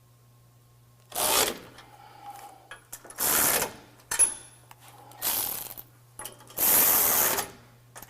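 Hand ratchet wrench tightening the bolts of a bumper winch tray: four bursts of ratcheting clicks, each about half a second to a second long, with a few softer clicks between them.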